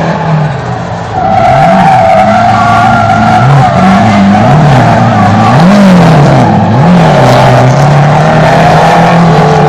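Drift car's engine revving up and down over and over while its tyres squeal through a long slide, the squeal coming in loud about a second in.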